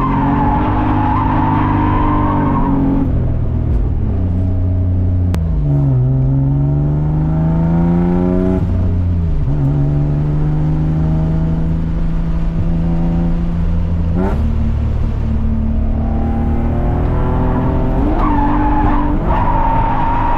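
Inside the cabin of a BMW E36 with an M52B28 2.8-litre straight-six, the engine runs hard while the tyres squeal in a drift. It then pulls up through the gears, with a drop in revs at each shift about six and nine seconds in, runs steadily, rises again about fourteen seconds in, and near the end the tyres squeal once more.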